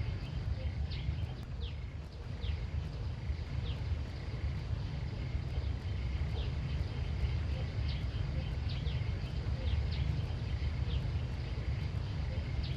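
Outdoor ambience: a steady low rumble with short, high, downward chirps scattered irregularly throughout.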